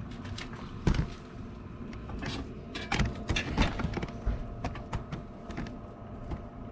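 Submersible pump running steadily with a hum, circulating white vinegar through a tankless water heater to flush out lime scale. A few sharp knocks sound about one second in and again around three seconds in.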